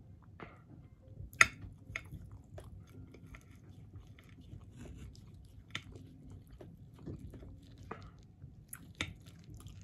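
Close-miked chewing of food, with scattered sharp clicks as a knife and fork cut steak against a plate; the loudest click comes about a second and a half in.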